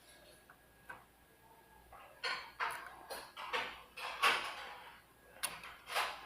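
Small clicks, taps and short scrapes of tiny screws and small hard case parts being handled during assembly of a kit amplifier. One faint click about a second in, then a quick run of clicks and scrapes from about two seconds in until near the end.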